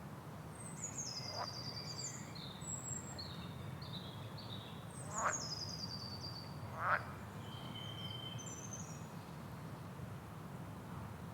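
Rainforest wildlife calling over a steady low background noise: several high bird calls, including descending trills and short whistled notes. Two louder, short sweeping calls come about 5 and 7 seconds in.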